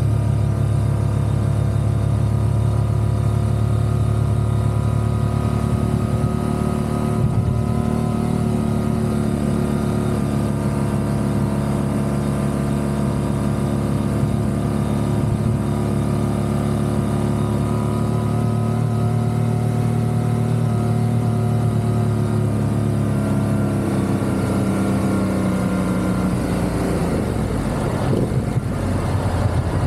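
Motorcycle engine running steadily at cruising speed, its pitch dropping as it slows down near the end.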